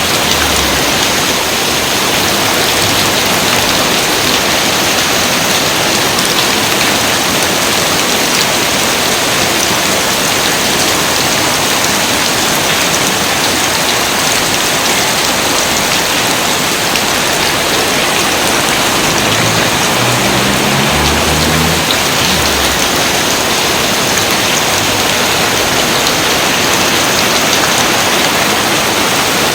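Steady, heavy rain falling as a dense even hiss. About two-thirds of the way through, a few short low tones step upward under it.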